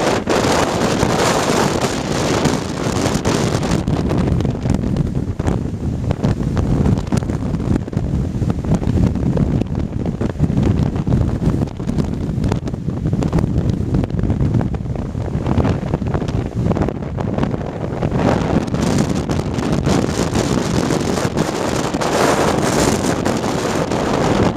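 Typhoon wind buffeting the microphone in a loud, continuous rumble, rising and falling in gusts, strongest at the start and again near the end.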